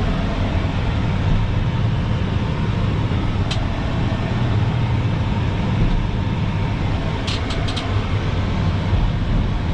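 Dump truck's engine running steadily while the hydraulic dump bed is lowered. There is one light click a few seconds in and a quick run of four clicks about three-quarters of the way through.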